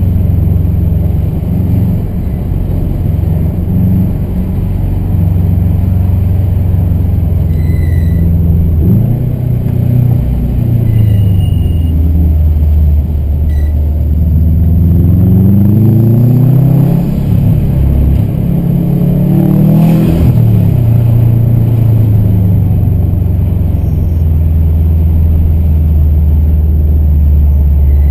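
Car engine heard from inside the cabin, running steadily under light load. Around the middle it revs up and drops back three times.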